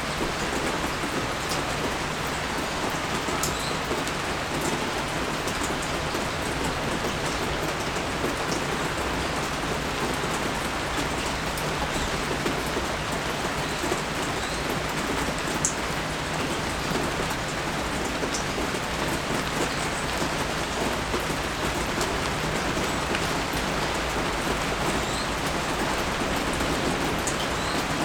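Steady rain falling and pattering on surfaces, with now and then a sharper single drop standing out.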